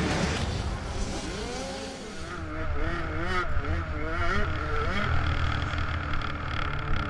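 Motocross bike engine in the 65cc class revving, its pitch climbing and dropping again and again.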